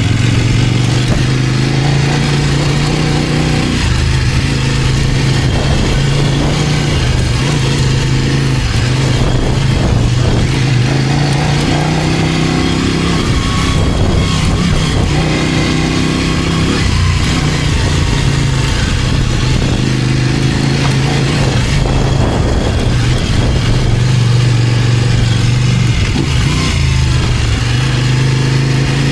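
Kove 800X Pro's parallel-twin engine pulling the bike along at modest revs, its note rising and dropping several times, over steady wind and road noise.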